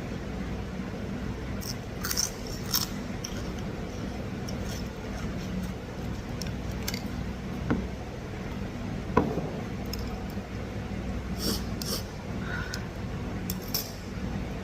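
A person eating a bowl of boat noodle soup: chewing and short mouth and utensil sounds scattered throughout, the sharpest about nine seconds in, over a steady low hum.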